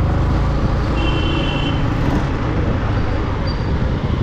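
Yamaha MT-15 V2's 155 cc single-cylinder engine running under way in city traffic, mixed with wind rush on the camera microphone. A brief high-pitched tone sounds about a second in.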